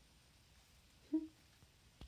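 A single short, low coo from a pigeon a little over a second in, against quiet room tone.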